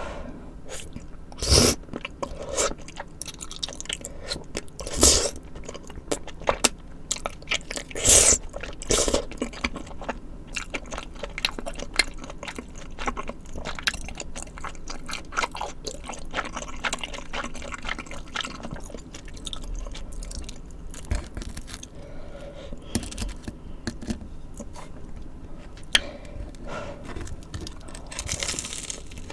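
Close-miked eating of spicy tteokbokki and fried snacks: wet chewing and clicking mouth sounds, with several loud crunchy bites in the first ten seconds.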